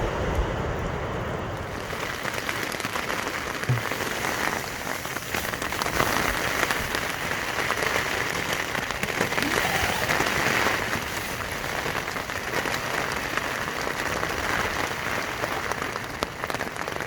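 Heavy rain falling, a dense steady patter of many drops.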